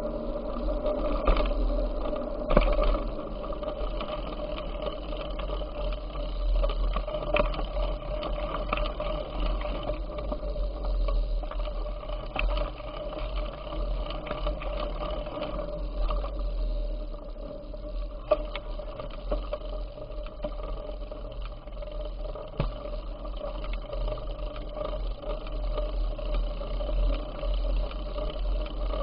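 Riding noise from a moving bicycle: a steady whirring hum over a low rumble, with scattered sharp clicks and knocks.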